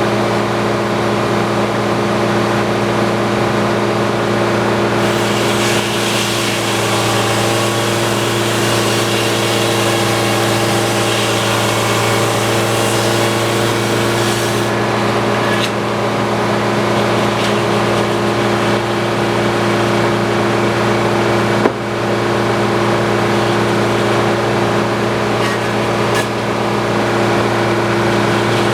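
Antique circular sawmill running steadily with a constant hum. From about five to fourteen seconds in, a brighter, rougher hiss joins it as the blade cuts through a log. One sharp knock comes about twenty-two seconds in.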